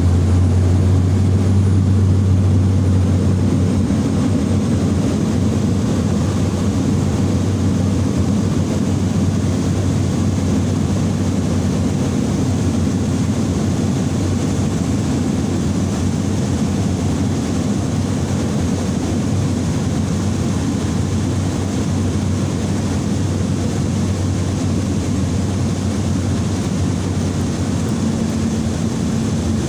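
Steady drone of a small propeller airliner's engine and propeller, heard from inside the cabin in flight; a deep low hum in it eases a few seconds in.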